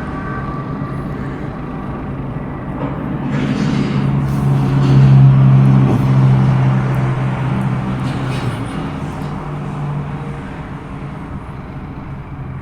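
A motor vehicle's engine passing by, a low steady hum that grows louder, peaks about five seconds in, then fades away.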